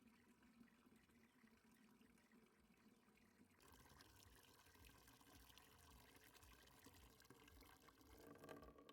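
Faint sound of liquid pouring, getting a little louder about three and a half seconds in.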